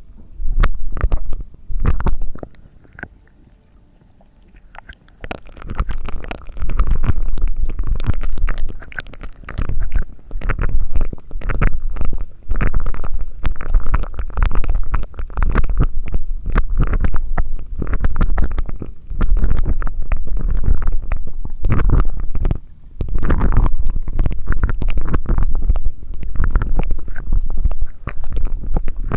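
Close-miked ASMR mouth sounds: dense crackling and clicking right at the microphone with a heavy low rumble, pausing briefly a few seconds in.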